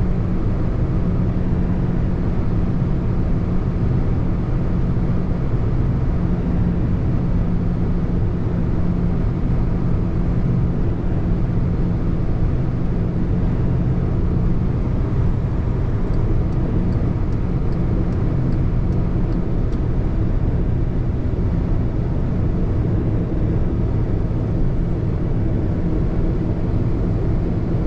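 Car being driven at a steady speed: engine and tyre noise as an even, unchanging low drone.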